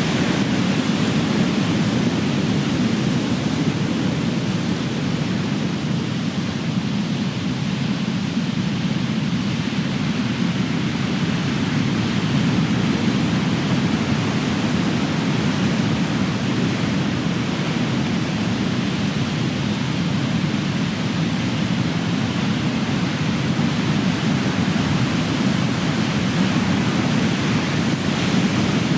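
Big ocean waves crashing, heard as a steady, unbroken rush of surf with only slight swells in loudness.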